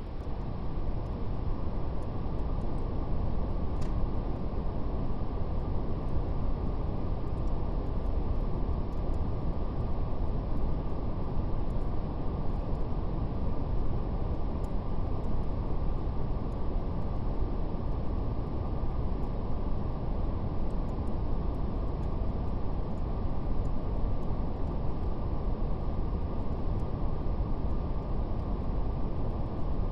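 Steady brown noise, a deep even rumbling hiss with little treble, with a faint crackle of a fire ticking softly over it.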